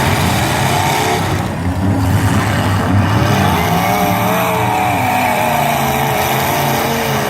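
Several derby car engines revving and running at once, their pitch rising and falling over a continuous loud din.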